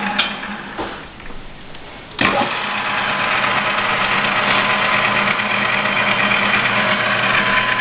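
ENCO 12 x 36 inch bench lathe switched off with a click, winding down for about two seconds. It is then switched back on with a sharp click and runs steadily, with a constant hum and whine from the motor and headstock gearing.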